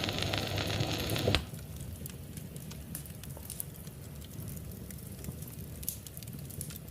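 Wood fire crackling in a fireplace, with scattered small pops and snaps. A louder tail of the preceding music ends abruptly about a second and a half in.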